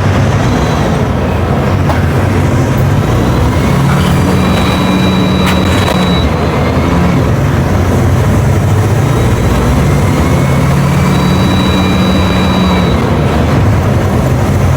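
Mercedes-Benz OF 1721 BlueTec5 bus's diesel engine running loud and steady. Twice, a thin high whine rises over it for about two seconds.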